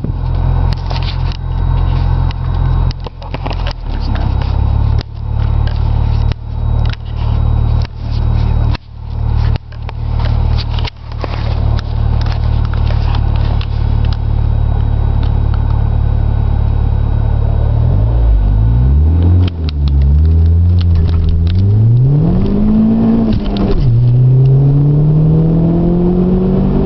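Audi A4 1.8T's turbocharged four-cylinder engine heard from inside the cabin, first running at low revs under a run of sharp crackling noises. About two-thirds of the way in it accelerates hard: the revs climb, drop at two gear changes, and climb again near the end.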